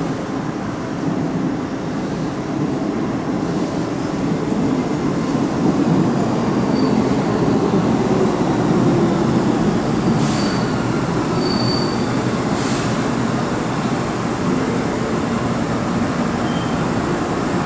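Keihan Electric Railway train running along the platform: a steady rail rumble that swells in the middle, with brief high-pitched wheel squeals and two sharp clicks about ten and twelve seconds in.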